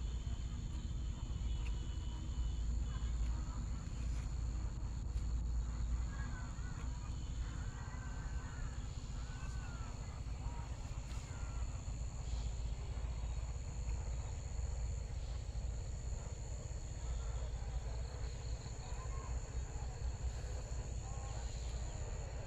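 Insects trilling steadily at a high pitch over a constant low rumble, with faint distant voices.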